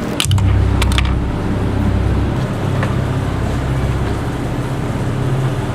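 A steady low rumble, with a few sharp clicks in the first second.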